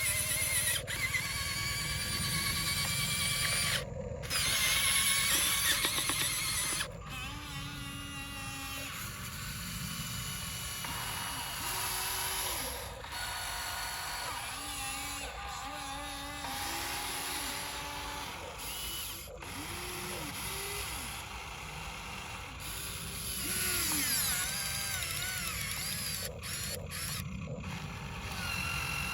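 RC dump truck's small electric drive motor and gearbox whining, the pitch rising and falling and the whine stopping and starting as the truck drives on and off the throttle.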